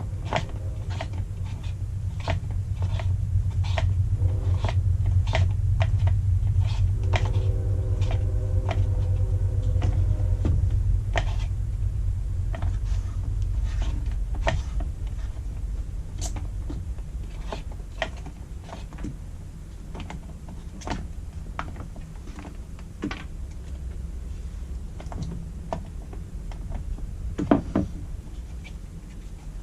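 Irregular light clicks and plastic knocks from the side cover of a Kobalt 24V chainsaw being fitted over the bar and tightened down, over a low rumble that is strongest in the first half. A sharper knock comes near the end.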